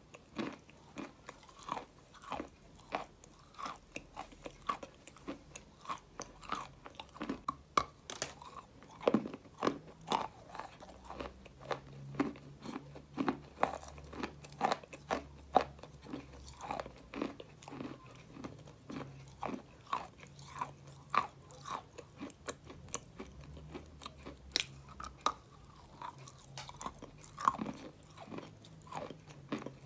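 Close-up chewing and crunching of a mouthful of white clay, an irregular run of crisp crunches at about two or three a second.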